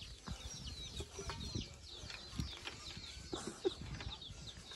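Birds chirping over and over, short high notes that fall in pitch, with a few soft knocks scattered through.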